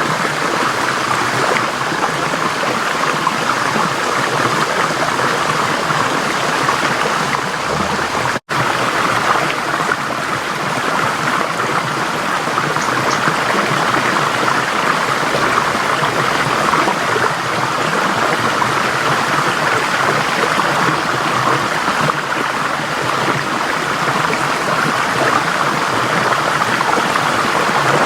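Forest stream flowing: a steady rush and gurgle of water over rocks, cut by a split-second dropout in the sound about eight seconds in.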